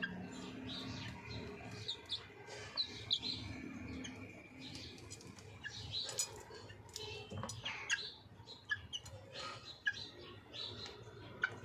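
Chicken making short, high chirps and peeps, scattered irregularly, with a few sharp clicks in between.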